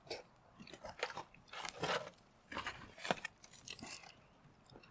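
A man chewing a mouthful of foil-grilled eggplant in yakiniku sauce close to the microphone, the chewing noises coming in short, irregular spurts.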